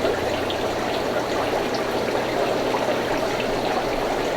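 Steady running and trickling of aquarium water in a fish shop's tanks.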